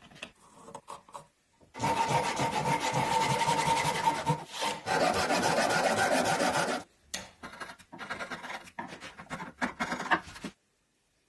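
A hand tool scraping on wood in steady, quick, even strokes for about five seconds. A run of shorter scrapes and knocks follows, stopping near the end.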